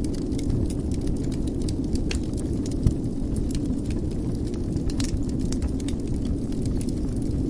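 Wood fire burning in a fireplace: a steady low rumble with scattered crackles and small pops, and one sharper pop about three seconds in.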